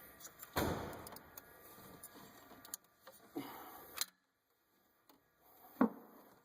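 A few sharp metallic knocks and clanks of hand tools against engine parts, with handling noise between them. The loudest comes about half a second in and another strong one near the end.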